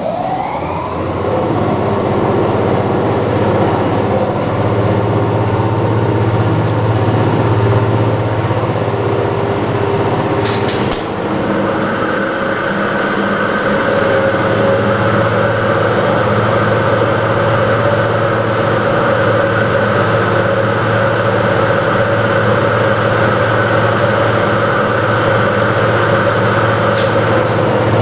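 An old elevator's hoisting machine in its machine room runs loudly. The motor spins up with a rising whine at the start, then runs with a steady hum and whine. About eleven seconds in there is a short click and the tone changes.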